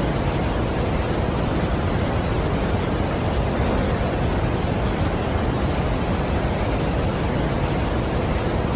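Steady, even rushing noise of a large waterfall, strongest in the low end, with no separate events.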